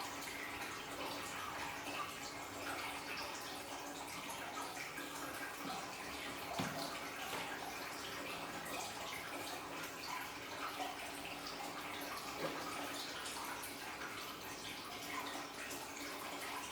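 Water from a small aquarium waterfall trickling and splashing steadily into the tank, with many little drips, over a faint steady low hum.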